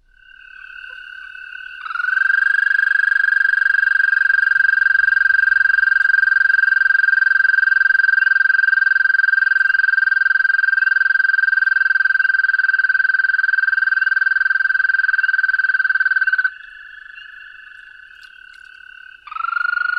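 American toad's long, steady, high musical trill, played from a recording through a speaker. A fainter trill starts first, the loudest one runs about fourteen seconds and stops abruptly, and another begins near the end.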